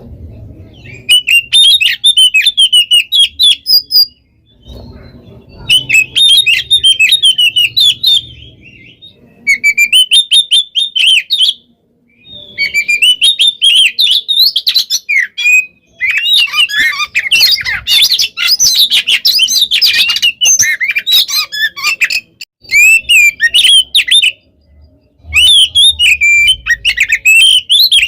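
Oriental magpie-robin (kacer) singing a fast, varied song of loud whistles and chirps packed with mimicked calls. It comes in bursts of a few seconds with short pauses, and a long dense run in the middle.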